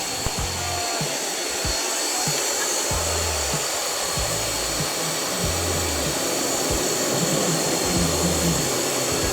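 A steady, even hiss with music underneath, its low notes changing every half second or so.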